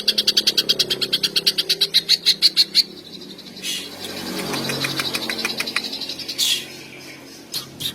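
Green leafbird (cucak ijo) singing: a fast trill of sharp repeated notes, about ten a second, for the first three seconds, then a looser run of varied chips and whistles.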